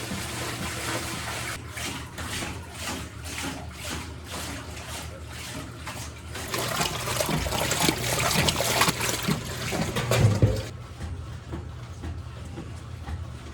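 Water splashing and trickling as wet cloth diapers are wrung out by hand over the wringer washer's tub. The splashing grows louder about halfway through, over a steady low hum.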